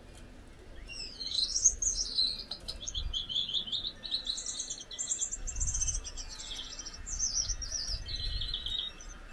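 Gouldian finch singing: one long song of rapid, repeated high notes that starts about a second in and runs for roughly eight seconds, shifting up and down in pitch between phrases.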